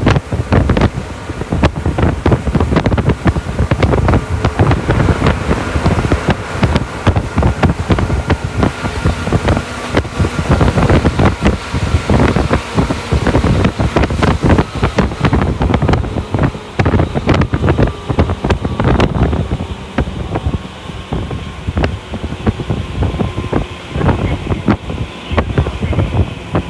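Tokyu Toyoko Line commuter electric train running: a steady rumble of wheels on rails, broken by frequent quick knocks, with a faint steady whine. The upper hiss eases off about two-thirds of the way through.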